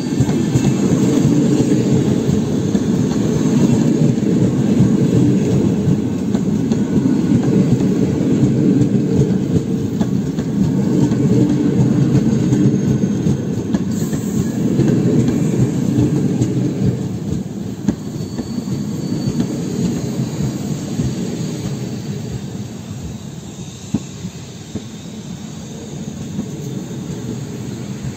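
Passenger coaches of an arriving PKP Intercity train rolling past on the rails, a steady heavy rumble of wheels on track with faint high squeals. The rumble grows quieter over the last ten seconds or so as the train slows.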